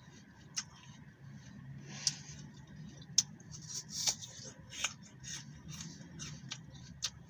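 Close-miked crunching and chewing of crisp green apple, a string of sharp crackly crunches at an uneven pace, the sharpest about three seconds in.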